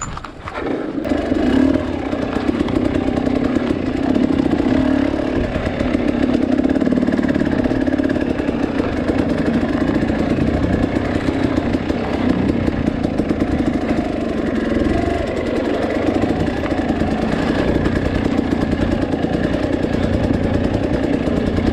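Two-stroke dirt bike engine running, getting louder about a second in and then holding a fairly steady note with small rises and dips.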